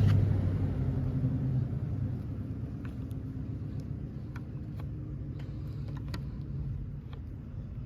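A low, steady motor rumble that fades over the first two seconds and then holds quieter, with a few light clicks scattered through it.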